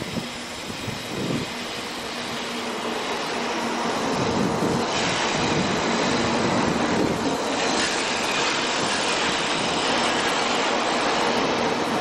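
JR West 700 series Rail Star shinkansen arriving at a station platform, its cars rolling past close by. The running noise builds over the first few seconds, then holds steady.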